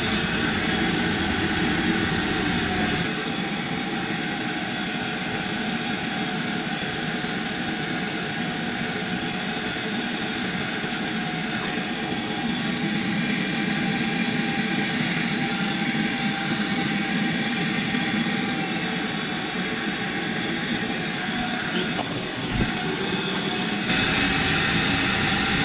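Steady mechanical drone of running machinery with several steady tones over it; the sound changes abruptly about three seconds in and again near the end.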